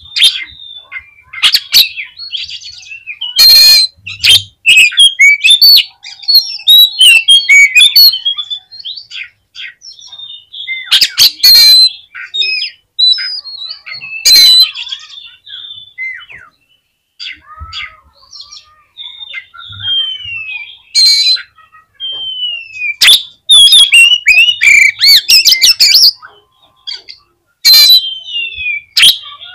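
Oriental magpie-robin (kacer) in full song: fast, varied whistled phrases and trills, broken every few seconds by loud, harsh rasping calls, an aggressive 'fighting' display.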